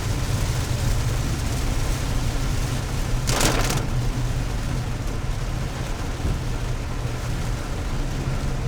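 Steady engine and road noise inside a moving car's cabin, with a short hiss about three and a half seconds in.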